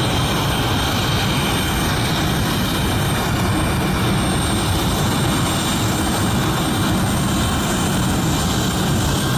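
Aircraft engine noise: a steady, continuous drone that neither rises nor falls.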